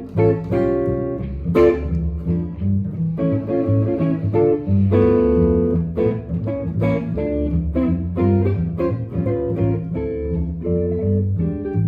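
Instrumental jazz from a guitar and bass duo: the guitar plays a stream of plucked notes and chords over the bass's low notes, with no vocals.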